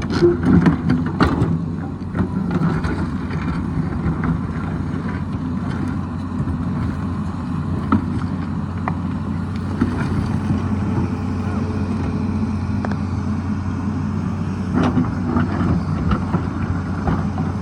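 Tata Hitachi excavator's diesel engine running steadily while digging, with a few sharp knocks in the first second or so and again near the end.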